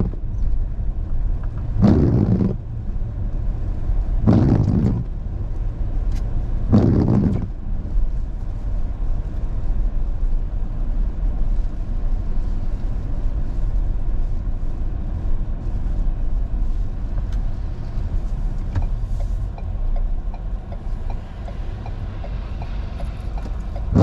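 A car being driven, heard from inside: a steady low rumble of engine and road noise, with four short, louder whooshes about two and a half seconds apart in the first several seconds.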